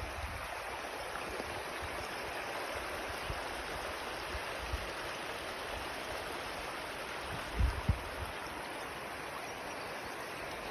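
River water flowing and rushing steadily, with a brief low thump about three-quarters of the way through.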